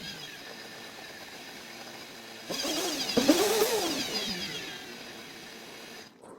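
Car engine revved in quick blips about two and a half seconds in, its pitch rising and falling, over a steady hiss; the sound cuts off abruptly near the end.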